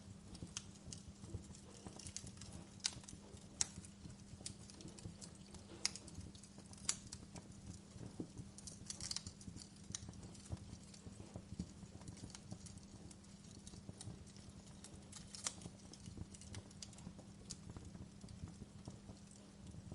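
Wood fire crackling in a fireplace: irregular sharp pops and snaps of burning logs over a low steady rumble.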